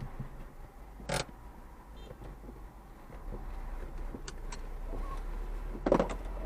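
Car running, heard from inside the cabin as a steady low hum of engine and road, with a short knock about a second in and another near the end.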